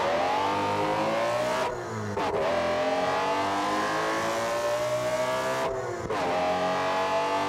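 Car engine accelerating hard through the gears: the revs climb steadily, dip briefly at a gear change about two seconds in and again about six seconds in, then climb again.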